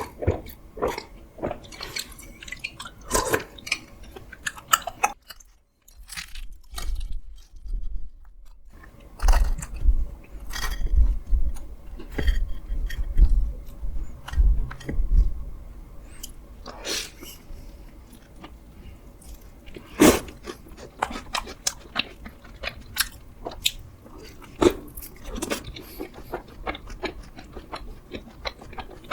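A person eating close to the microphone: chewing and biting with crisp crunches and wet clicks, mukbang-style, with a low rumble for several seconds in the middle.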